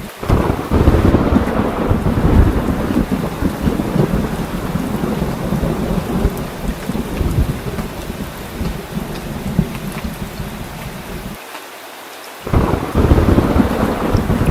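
Heavy rain pouring steadily, with deep rolling thunder rumbling in waves underneath. Near the end the rumble drops away for about a second, leaving only the hiss of rain, then a loud roll of thunder swells back in.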